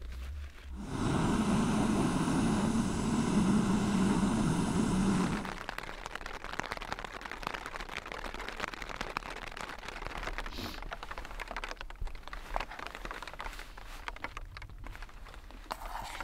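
A loud rush of rumbling noise lasting about four and a half seconds, then light rain pattering on a tent's flysheet.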